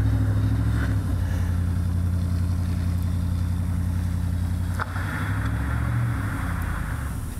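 Truck engine running steadily under load as it tries to climb a slippery hill, a low drone that dips briefly about five seconds in and eases off near the end.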